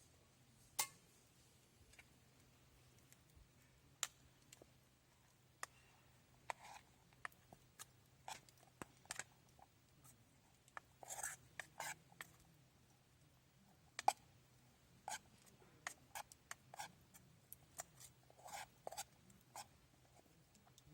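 Faint, scattered small clicks and ticks at irregular intervals, a few slightly longer scraping taps among them, over a low steady hum.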